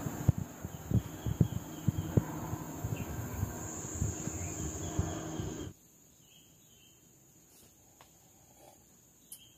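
Insects droning steadily at a high pitch, with a series of knocks and clatter over a rushing background noise that cuts off abruptly a little past halfway. The rest is quiet apart from the insects, a few faint chirps and a single click near the end.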